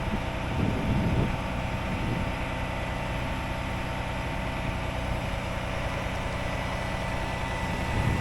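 A 6x6 rollback tow truck's engine running steadily, with a thin, even whine above the engine note.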